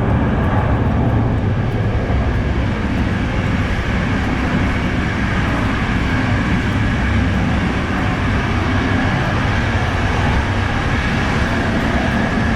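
Steady running noise of a Trenitalia InterCity Notte sleeper train in motion: an even, loud rumble.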